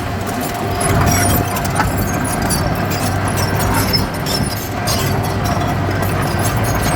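Heavy diesel earthmoving machine running steadily, a low engine hum with a steady higher whine over it, and scattered sharp metallic clanks.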